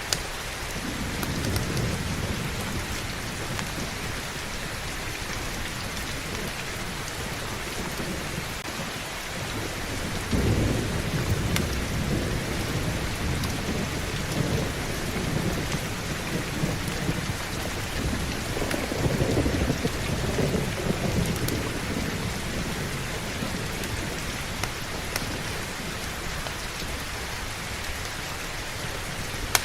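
Steady heavy rain with rolling thunder. A low rumble comes about a second in, then a longer roll runs from about ten seconds in to past twenty seconds.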